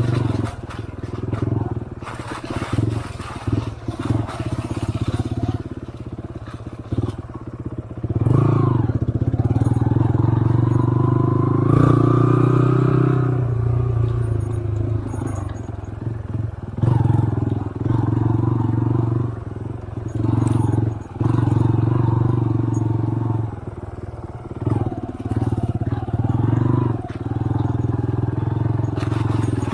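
Trail motorcycle engine running under way, rising in pitch and loudest a few seconds in as the throttle opens, then settling back, with scattered knocks and scrapes from riding a rough trail.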